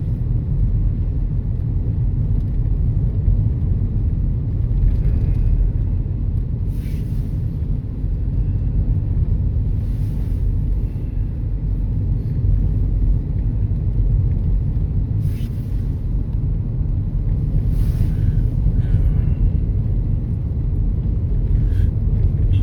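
Car driving, heard from inside the cabin: a steady low rumble of road and engine noise, with a few faint, brief hissy sounds.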